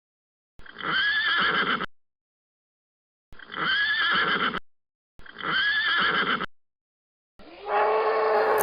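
A pony whinnying in three identical short calls, each about a second long and separated by dead silence: one recorded whinny looped. Near the end a different, steady lowing call begins.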